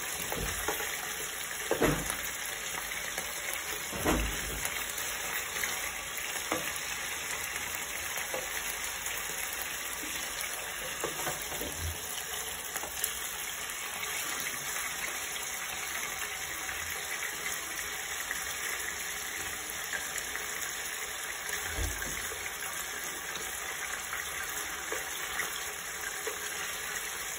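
Chicken pieces sizzling steadily as they fry uncovered in olive oil in a non-stick pan. A slotted spatula knocks and scrapes against the pan as the pieces are turned, most sharply about two and four seconds in.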